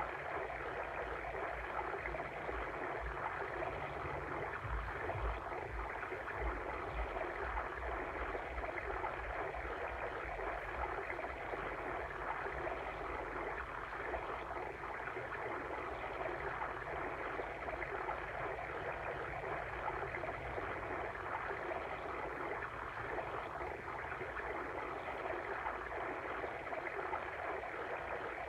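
Steady flowing water of a stream, an even rushing and babbling with no breaks.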